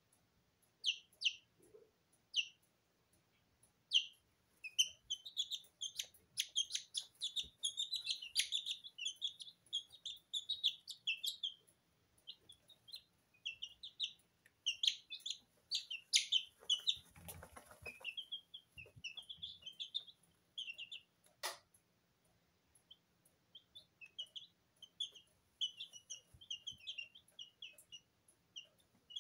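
Two-week-old Sablepoot bantam chicks peeping, many short, high chirps in quick runs with a few short pauses. A brief rustle about halfway through and a single sharp click a few seconds later.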